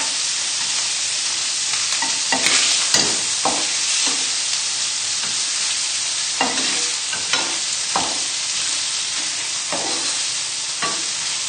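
Chicken livers frying in butter in a hot pan: a steady sizzle with a short, sharp crackle every second or so.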